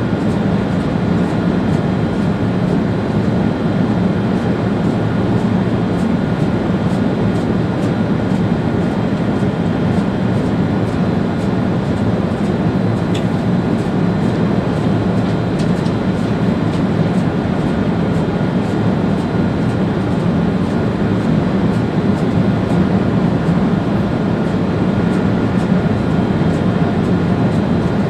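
ÖBB Railjet train running steadily along the line, heard from the driver's cab: an even rumble with a faint steady whine above it and light ticks, and a single brief click about halfway through.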